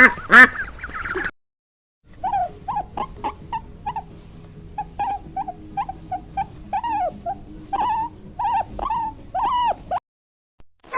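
A young animal giving short, high, arching cries, roughly two a second and uneven in spacing, after a brief run of bird calls that breaks off about a second in.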